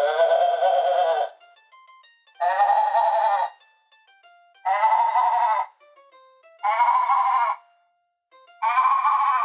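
A goat bleating five times, each bleat about a second long and a little higher in pitch than the last, over a simple plinking tune.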